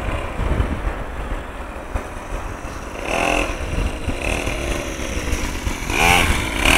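Small motocross bike's engine running, its pitch rising and falling as the throttle is opened and closed, about three seconds in and again near the end.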